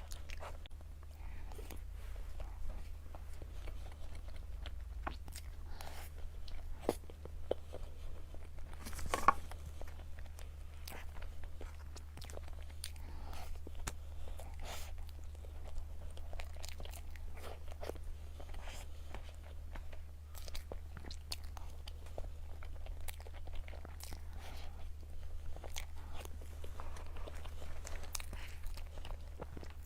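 Close-miked eating of dessert: irregular wet chewing, biting and mouth smacks, with a louder bite about nine seconds in, over a steady low electrical hum.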